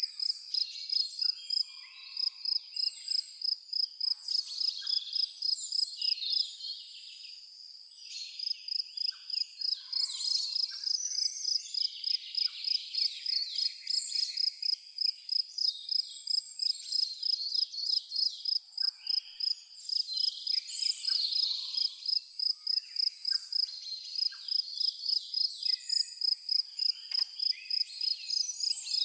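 A cricket chirping in a fast, even, high-pitched pulse of about three chirps a second, pausing briefly about seven seconds in, with birds calling now and then over it.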